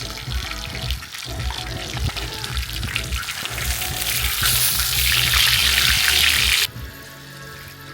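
Eel frying in pork fat in a cast-iron gamasot cauldron: a dense sizzle with fine crackles. It swells louder about halfway through and cuts off suddenly near the end.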